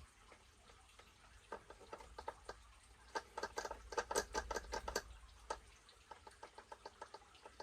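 Hardened steel spur and pinion gear teeth clicking lightly, many quick clicks in a row, as the spur is rocked back and forth to feel the backlash while setting the gear mesh. The clicking is densest in the middle and thins out toward the end.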